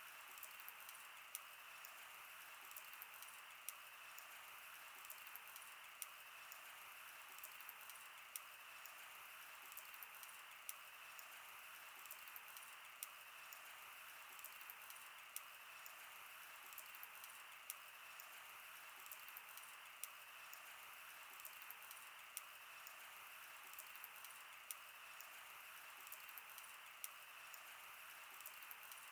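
Wood fire crackling: faint, sharp pops and snaps of burning wood at irregular intervals over a steady soft hiss.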